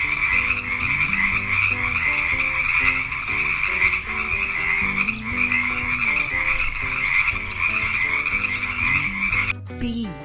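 Frogs croaking in a dense, unbroken chorus that cuts off suddenly near the end.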